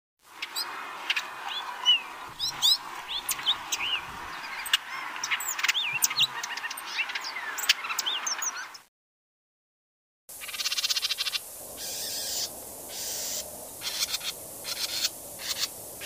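Birds chirping: many short, high whistled notes rising and falling. The sound cuts off about nine seconds in, and after a short silence a stretch of fast, buzzy trilled chirps starts up and stops and starts.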